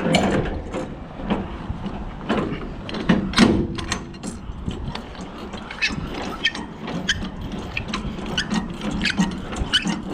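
Irregular metallic clicks and knocks from working a semi-trailer's hardware during uncoupling, over a low steady hum. The clicks come thicker in the second half.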